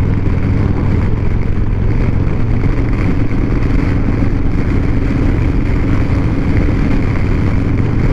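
Motorcycle riding at a steady speed: an even engine drone mixed with a steady rush of noise, with no change in pace.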